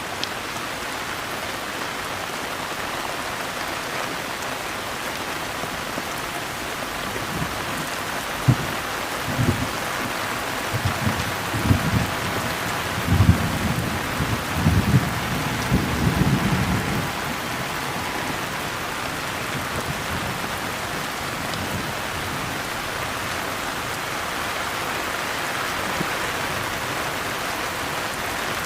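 Steady heavy rain falling, with a spell of low thunder rumbling in several surges from about eight seconds in until just past the middle, then rain alone again.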